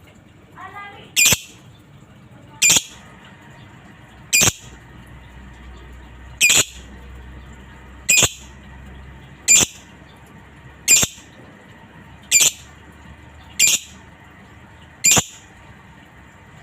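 Lovebird giving short, shrill squawks, about ten of them evenly spaced roughly a second and a half apart, with a brief soft chatter about a second in.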